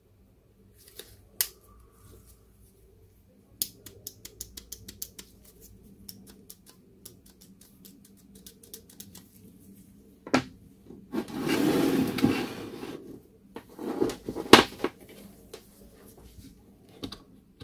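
Small parts and tools being handled during repair work. A quick run of light clicks comes first, then a couple of seconds of louder scraping and rustling about two-thirds through, with a few sharp knocks around it.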